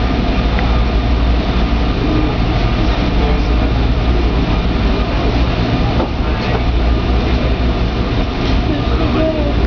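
Train running on the rails: a steady, loud rumble with a few faint clicks.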